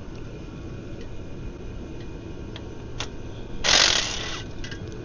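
Mechanic's hand tools working on a clutch assembly: a few sharp metallic clicks, then a short harsh rasping burst of under a second, over a steady low background rumble.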